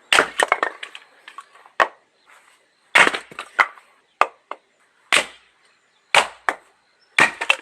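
A steel-handled axe splitting oak firewood: a series of sharp wooden cracks, the heaviest blows coming every one to two seconds, with lighter knocks between them.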